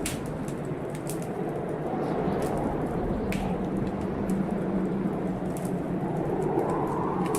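Fireplace fire crackling, with scattered sharp pops, over a steady rumbling storm of wind and rain.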